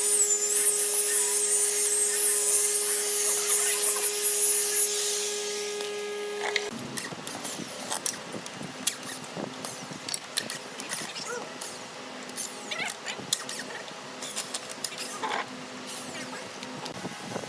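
A small high-speed power tool runs with a high, wavering whine and winds down about five seconds in. After that come scattered light knocks and scrapes of hand work on wood over a low steady hum.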